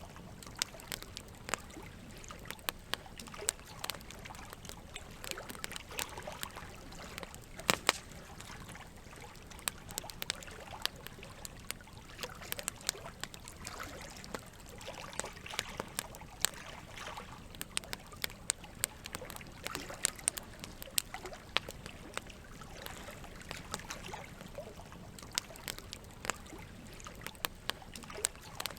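Wood campfire crackling, with sharp irregular pops, the loudest about eight seconds in, over a steady trickle of running water.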